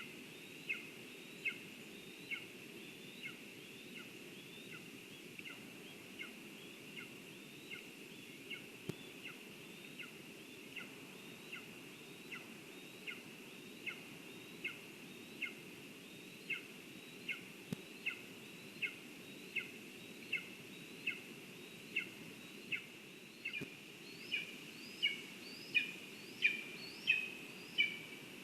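A bird calling a long, steady series of short, high, falling notes, a bit more than one a second, growing louder over the last few seconds, over a steady low background hiss.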